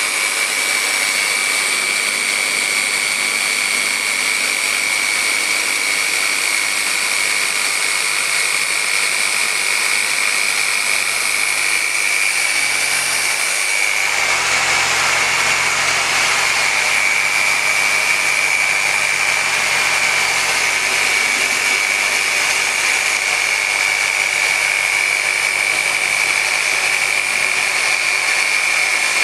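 Dynabrade random orbital polisher with a microfiber pad running steadily at speed 5 on car paint, a steady whine over a hiss. It is polishing out 4000-grit wet-sanding marks, with a slight change in tone about halfway through.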